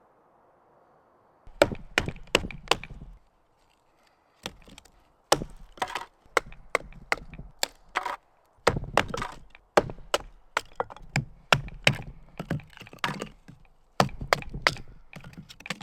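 Dry sticks and branches snapping and cracking, in clusters of sharp cracks with short pauses between them, as firewood is gathered. The cracks start about a second and a half in.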